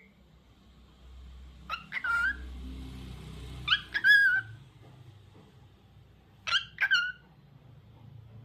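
Lutino cockatiel calling: three pairs of short, sharp chirps, each pair a quick double note, about two seconds apart.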